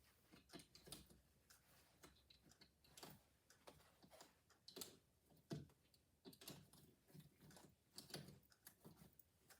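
Faint, irregular clicks and taps of plastic drapery carriers and twist stops being moved and set along a drapery rod.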